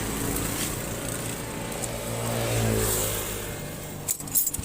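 Motorcycle engine accelerating as it pulls away, rising in pitch and then fading; a few sharp clicks near the end.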